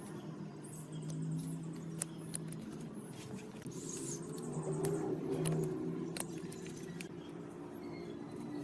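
Scattered light clicks and clinks over a steady low hum, the hum swelling about halfway through.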